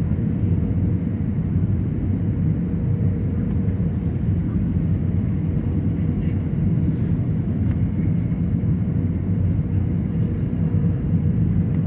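Steady cabin noise of an Airbus A320 in flight on descent: low engine and airflow rumble with a faint steady tone running through it.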